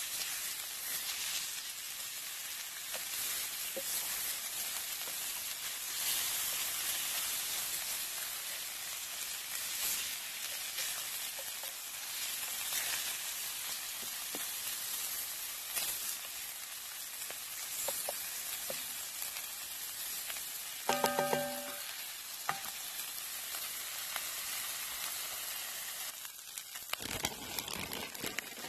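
Food sizzling and frying in a pan over a campfire: a steady hiss with scattered small crackles. A short pitched sound breaks in about two-thirds of the way through, and the sizzle thins near the end.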